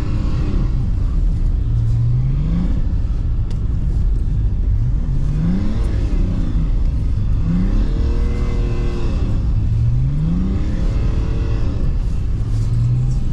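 BMW E39's diesel engine heard from inside the cabin, revving up four times, each climb in pitch followed by a lift off the throttle, then holding a steady note near the end, as the car is drifted on snow.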